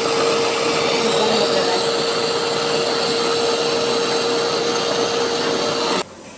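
Electric food processor running, pureeing cut kiwi, pear, blueberries and raspberries: a steady motor hum with whirring noise that cuts off suddenly about six seconds in.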